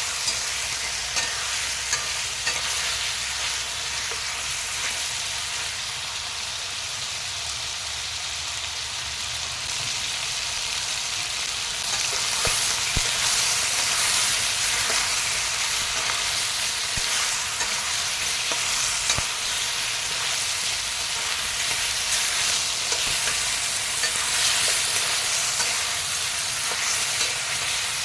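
Food sizzling in hot oil in a pan while it is stirred, with scattered clicks of the utensil against the pan. The sizzle grows louder about twelve seconds in.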